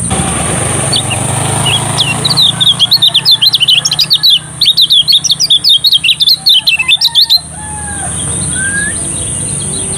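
Lemon-bellied white-eye (kecial kuning) singing: a loud, rapid run of high chirping notes that starts about two seconds in and breaks off suddenly about seven seconds in. A steady high-pitched whine runs underneath.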